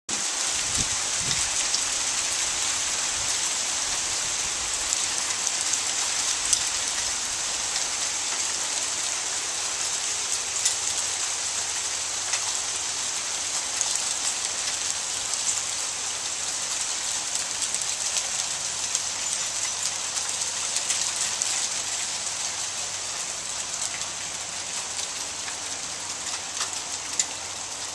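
Hail falling steadily, a dense patter with many sharp clicks of hailstones striking hard surfaces, easing slightly toward the end.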